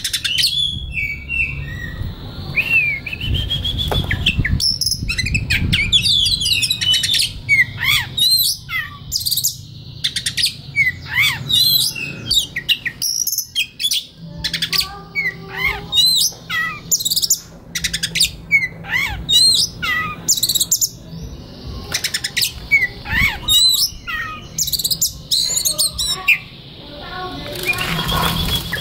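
Oriental magpie-robin (kacer) singing: a long, varied run of quick whistles, chirps and rising and falling notes with short pauses between phrases.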